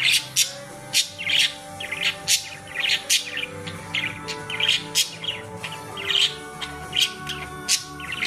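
Small birds chirping: short, sharp chirps repeated about once or twice a second, over softer steady background music with held notes.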